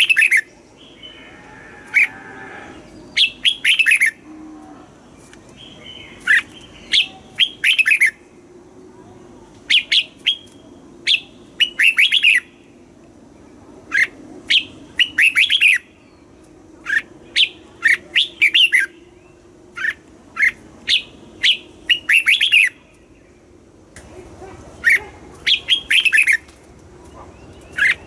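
Red-whiskered bulbul singing: short, bright phrases of a few quick whistled notes, repeated every second or two, with a pause of about two seconds near the end.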